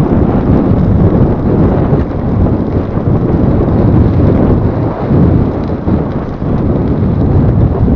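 Wind buffeting the microphone of a camera riding along on a bicycle: a loud, uneven low rumble that rises and falls.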